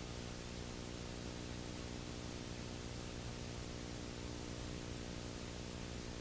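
Steady electrical hum, a stack of low tones, under an even hiss, with no other sound standing out.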